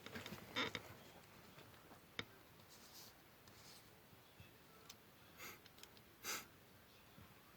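Faint handling of paper: a few short clicks and brief rustling swishes, the loudest a little after six seconds in, against a quiet room.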